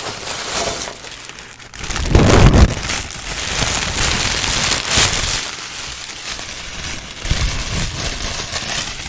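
Gift wrapping paper crinkling and crackling as it is handled close to the microphone, with a louder rustle about two seconds in.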